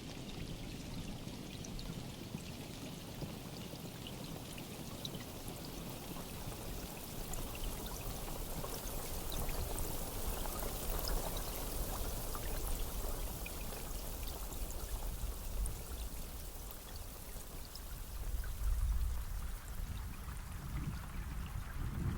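Steady rain falling, a continuous hiss with many single drops ticking through it. A low rumble swells briefly about three-quarters of the way through.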